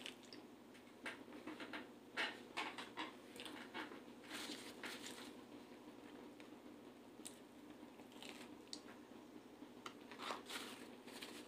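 A person chewing a mouthful of pizza up close: faint, irregular wet mouth clicks and soft crunches, busiest in the first few seconds and again near the end.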